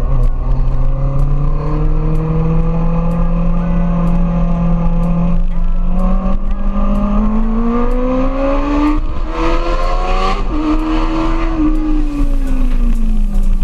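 Kawasaki ZX-25R's inline-four running through an Akrapovic GP Evolution exhaust. The engine note climbs steadily in pitch for about ten seconds as the bike pulls through the revs, then falls away near the end.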